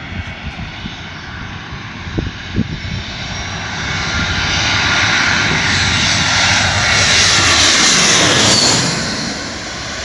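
Landing airliner passing low overhead on final approach: its engine noise builds over several seconds, peaks, then falls away with a drop in pitch as it goes past.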